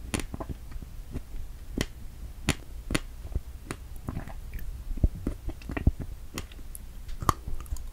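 Close-miked chewing of strawberries: irregular sharp mouth clicks and smacks, a few a second.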